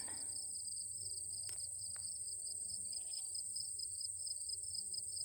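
Chorus of prairie insects such as crickets and katydids: a steady high-pitched trill with a second, lower trill pulsing rapidly beneath it. Two faint clicks come about a second and a half and two seconds in.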